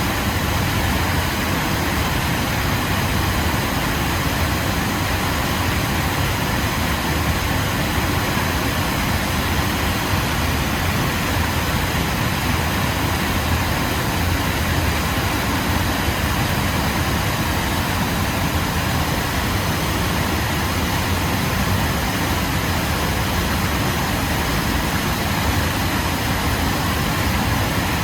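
Waterfall pouring in a steady, unbroken rush of water with a deep rumble underneath.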